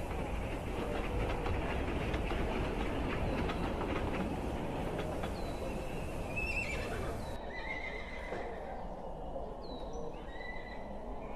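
Horse-drawn carriage passing: hooves and wheels clattering over a heavy rumble, with horses whinnying. After about seven seconds the clatter drops away to a quieter background with short high calls.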